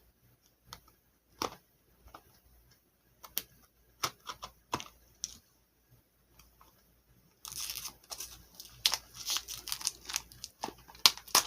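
Scattered taps and clicks of a small blind-box package being handled, then from about seven and a half seconds in a dense run of tearing and crinkling as the packaging is torn open.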